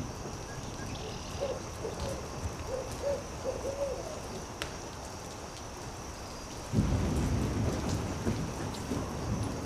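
Night ambience in which an owl gives a run of short hoots, with campfire crackles ticking through. About seven seconds in, a low thunder rumble sets in suddenly and keeps going.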